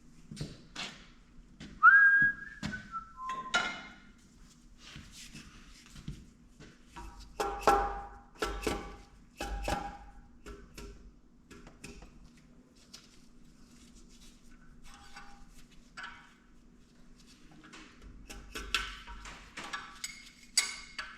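Steel tools and engine parts clinking and knocking, with a few louder ringing clanks in the middle. A short whistled run of falling notes comes about two seconds in.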